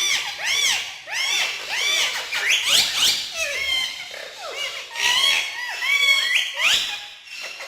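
Male Indian ringneck parakeets calling and chattering in a quick run of short, shrill calls that rise and fall in pitch, one after another with hardly a pause.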